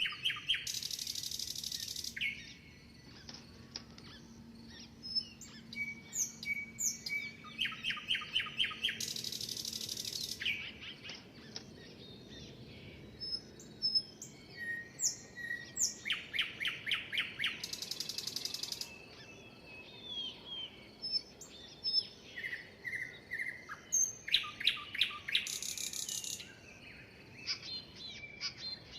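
Songbirds chirping and singing, one bird repeating the same song about every eight seconds, four times: a fast run of clear notes followed by a long, buzzy, hissing trill. Other birds add scattered short chirps and whistles in between.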